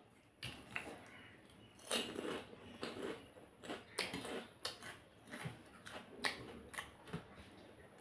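Eating sounds close to the microphone: chewing with irregular sharp clicks and wet smacks, several a second.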